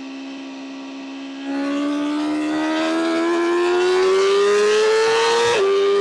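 BMW M1000R's inline-four engine running at steady revs, then opened up about a second and a half in: louder, the revs climbing steadily for about four seconds before dropping sharply with an upshift near the end.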